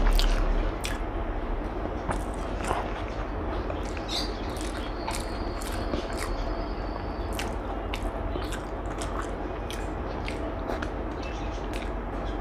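A person chewing food close to the microphone, with many short, irregular mouth clicks.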